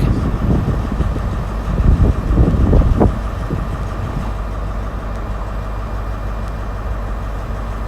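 CrossCountry Class 221 Super Voyager double set running on its underfloor diesel engines: a steady low diesel hum as the train pulls out, a little louder in the first few seconds, then even.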